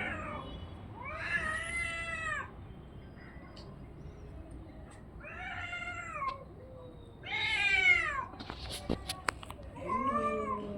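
Domestic cat meowing: four drawn-out calls, each rising then falling in pitch, the third the loudest. A few sharp clicks follow the third call.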